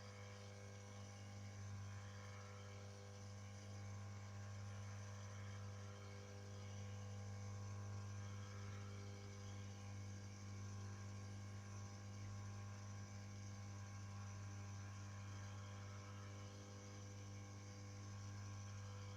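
Steady electrical mains hum with a faint background hiss, with no distinct work sounds.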